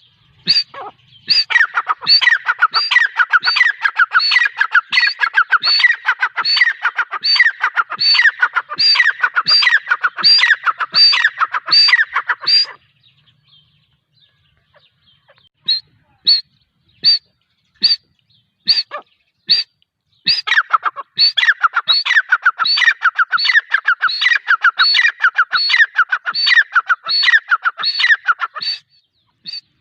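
Female gray francolin calling: long runs of rapid, shrill repeated notes, broken between about 13 and 20 seconds in by a pause with only a few spaced single notes, then another long run.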